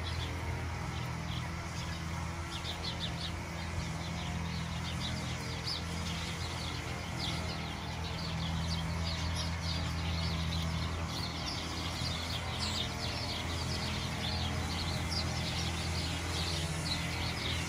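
Many short, high chirps, small birds calling again and again, over a steady low hum.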